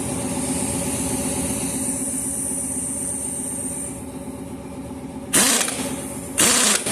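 An engine running steadily, with a high hiss over it that fades out about four seconds in. Two short, loud bursts of noise come about five and a half and six and a half seconds in.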